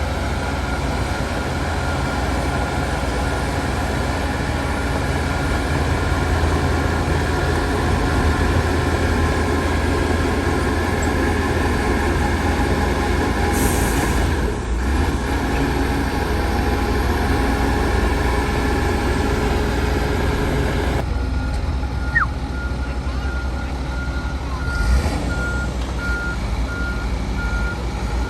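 Heavy diesel earthmoving machinery running steadily: a bulldozer and dump trucks working landfill. There is a short air hiss partway through, and about two-thirds of the way in a reversing alarm starts beeping steadily as a machine backs up.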